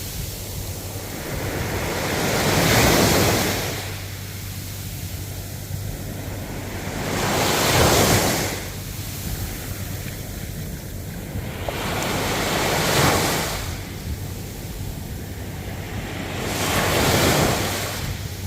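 Ocean surf: waves surge in and wash out four times, about every four to five seconds.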